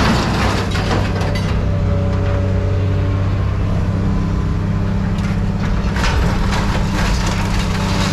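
A motor running steadily with a low hum, while scrap metal clatters and crunches in short bursts near the start, about a second in and again about six seconds in.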